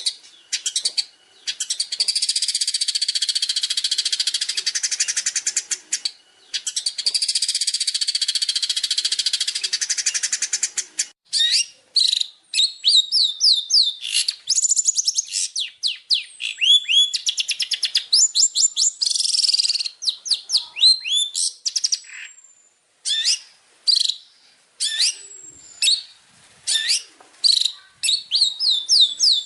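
Long-tailed shrike (cendet) singing: two long, rapid rattling trills, then a run of quick sweeping whistled notes with short gaps between them.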